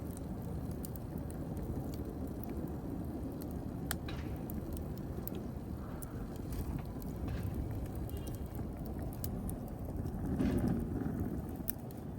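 Wood fire burning: a steady low rumble of flames with scattered sharp crackles and pops, swelling a little louder near the end.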